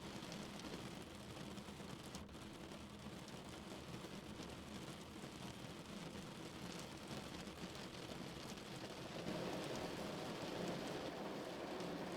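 Rain falling on a car's roof and windows, heard from inside the car as a steady patter that grows heavier about nine seconds in.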